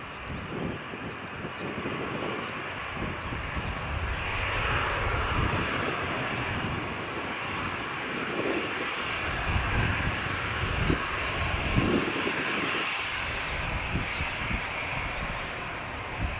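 Jet airliner engines running close by, a steady rushing noise over an uneven low rumble, with the hiss growing stronger about four seconds in.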